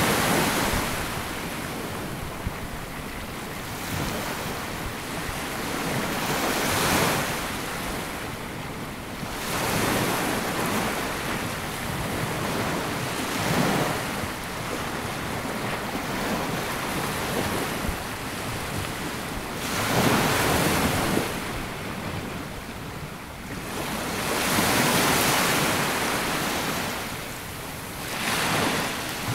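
Small waves breaking and washing up a sandy beach, a swell of surf every few seconds between quieter stretches of steady hiss, with some wind noise on the microphone.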